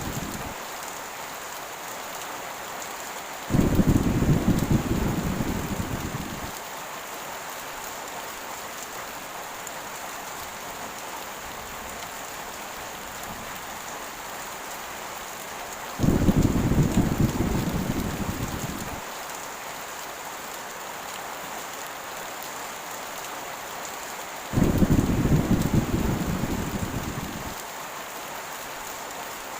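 Steady heavy rain with three low rolls of thunder, about three seconds in, about sixteen seconds in and near twenty-five seconds in. Each starts suddenly and fades over about three seconds.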